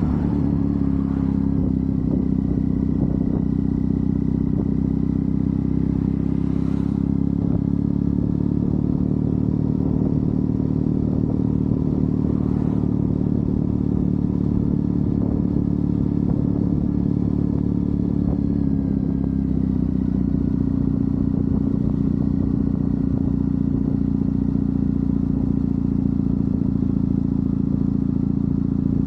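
Triumph Bonneville's parallel-twin engine running steadily under way on the road, its note easing down slightly about two-thirds of the way through and then holding steady again.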